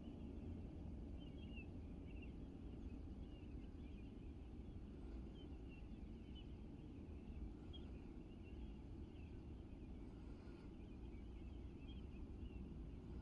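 Faint birdsong at dawn: many short, scattered chirps from several birds over a low, steady rumble of outdoor background noise.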